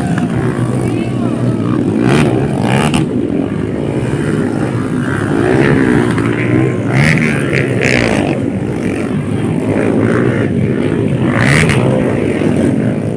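Dirt bike engines running loud and revving up and down, the pitch rising and falling several times.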